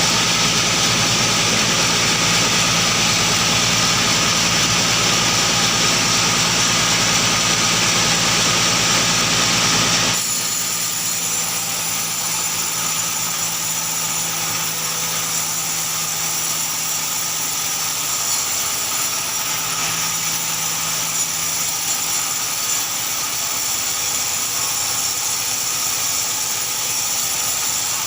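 Sawmill machinery engine running steadily. About ten seconds in, the sound drops abruptly to a quieter, steady engine sound.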